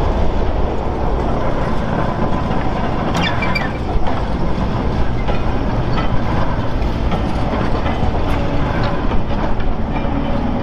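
Railway train rolling along the track: a steady rumble of wheels on rails with scattered metallic clicks, and a brief high squeal about three seconds in.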